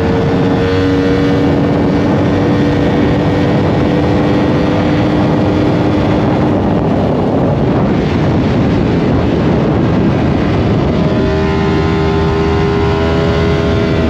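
Yamaha R1 sport bike's inline-four engine running at highway speed under a dense rush of noise, its tone climbing slowly with the revs. The engine note blurs into the rush for a few seconds midway, then comes back and climbs again.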